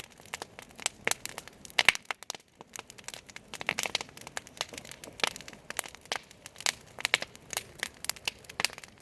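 Wood fire crackling: irregular sharp pops and snaps, some much louder than others, over a faint hiss.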